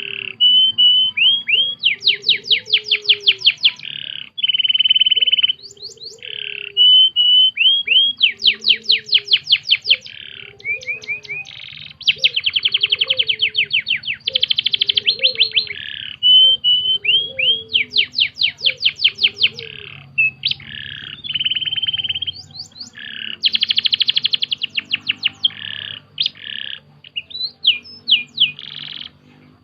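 Domestic canary singing continuously: long rolling trills of rapidly repeated notes, broken by short chirps and held buzzy phrases, one tour after another.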